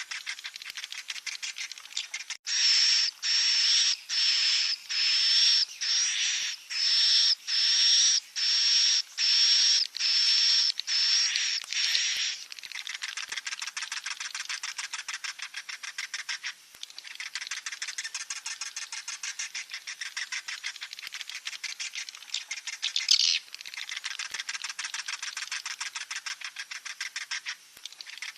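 Swiftlet chicks calling: a dense, rapid chattering runs throughout, and from about two seconds in a series of about thirteen loud, buzzy chirps comes at roughly one and a half a second, stopping about twelve seconds in.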